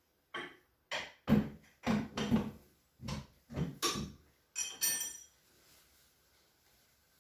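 A series of about ten hard knocks and clatters, a few a second, with the last two giving off ringing clinks like metal or glass.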